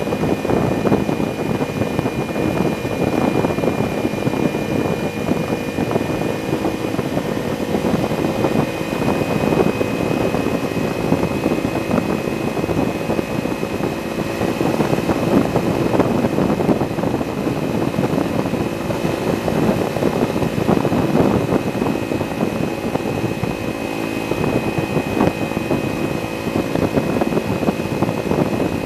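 Kawasaki Ninja 300's parallel-twin engine running at a steady highway cruise, picked up through a camera bolted to the fuel tank, with a steady rush of wind over the microphone.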